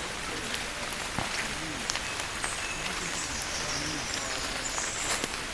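Marsh ambience: a steady hiss with scattered clicks and faint, short high bird calls.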